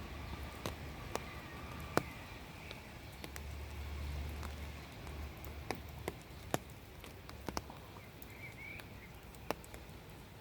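Quiet outdoor garden ambience: a steady low rumble with scattered sharp clicks and a couple of faint short chirps.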